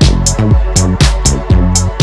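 Electro funk track made on drum machine and synthesizers: a steady beat at about two hits a second with crisp high percussion over a stepping synth bass line.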